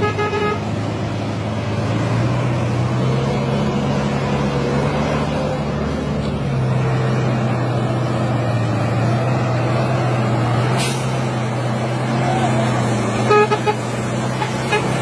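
Heavy truck's diesel engine pulling hard and steadily, its pitch stepping up about two seconds in and again a few seconds later. A short horn toot comes at the start and a couple more near the end, with a single sharp hiss or click about eleven seconds in.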